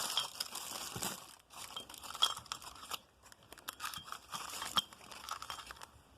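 Packaging crinkling and rustling as it is handled, with scattered sharp clicks and light clinks; the loudest clicks come a little after two seconds and near five seconds in.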